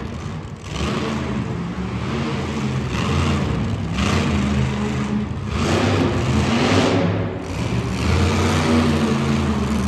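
Monster truck engine running hard and revving, its pitch rising and falling with the throttle in repeated surges.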